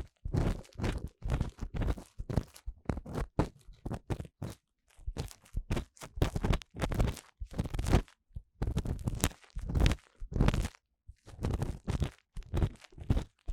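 An ear-cleaning tool scraping and rubbing inside the ear of a 3Dio binaural microphone, close up: a rapid, irregular run of crackly scratches, several a second, with a couple of short pauses.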